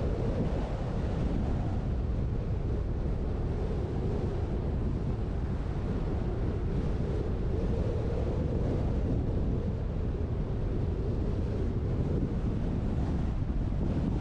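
Wind buffeting the microphone of a GoPro mounted on a moving truck's roof: a steady rushing noise, heaviest in the low end, with the truck's road noise mixed in.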